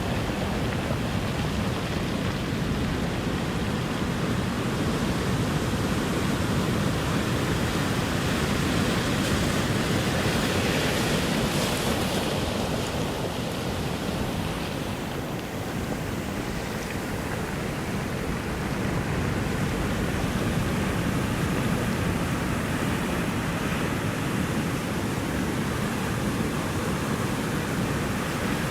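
Ocean surf: a steady wash of breaking waves that swells and eases slowly, a little louder about a third of the way in and dipping briefly near the middle.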